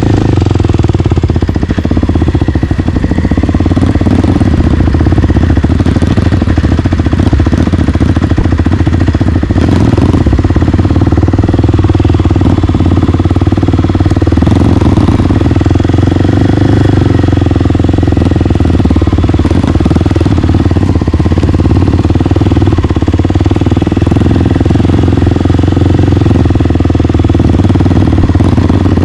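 Single-cylinder four-stroke trail motorcycle engine running steadily at low-to-mid revs while riding in low gear, with no big revving or stops.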